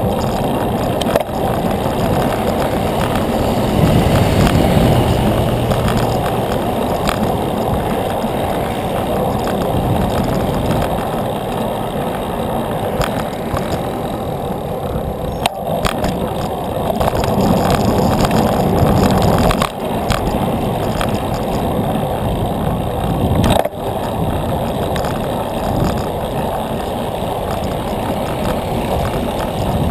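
Steady rush of wind on the microphone and tyre noise from a bicycle rolling on pavement, swelling louder about four seconds in and again around eighteen seconds. A couple of sharp knocks cut through near the middle.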